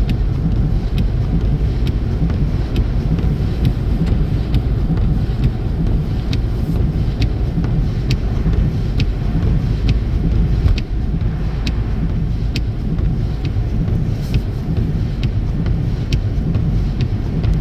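Steady low road and engine rumble inside a car cruising on the highway, with a faint regular tick about twice a second.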